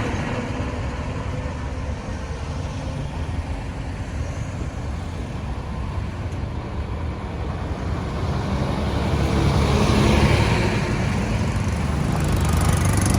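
Road traffic: engines rumbling and tyre noise, swelling louder about two-thirds of the way through as a vehicle passes close.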